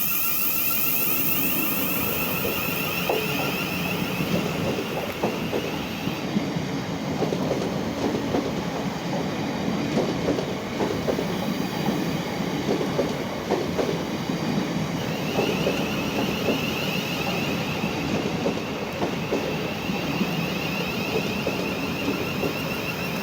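Class 700 electric multiple unit departing, its wheels clattering rapidly over rail joints and points. A high whine sounds for the first six seconds or so and comes back from about fifteen seconds in.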